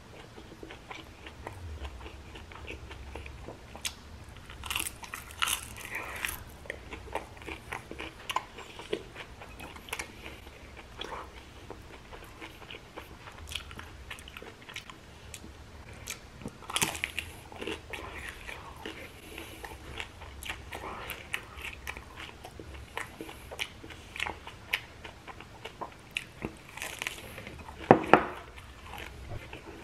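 Close-miked biting and chewing of crunchy batter-fried prawns: a run of crisp crackling crunches, with louder bites now and then and the loudest near the end.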